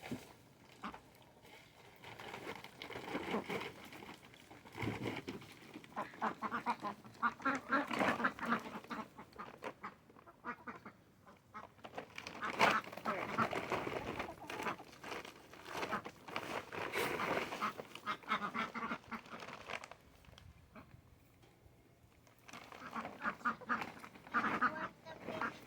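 Domestic ducks quacking in several runs of rapid calls, each a few seconds long, with short pauses between.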